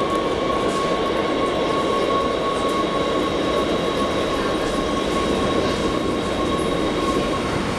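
Dutch NS Sprinter electric train pulling into the platform: a steady rolling rumble with a thin high whine over it, which fades away shortly before the end as the train comes to a stop.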